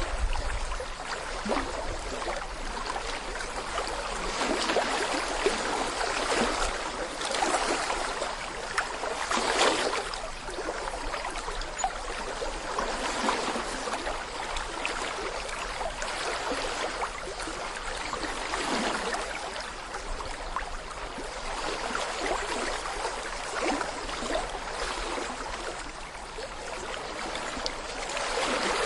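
Small stream babbling over stones: a continuous, uneven gurgle and splash that swells and eases every few seconds.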